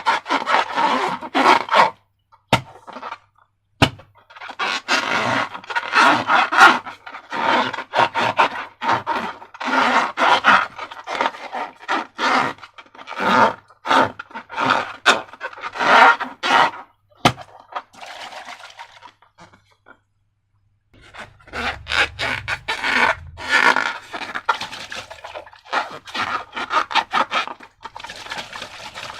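Slime being mixed and worked by hand: runs of quick, sticky crackling and scraping sounds, pausing briefly about two seconds in and again about twenty seconds in.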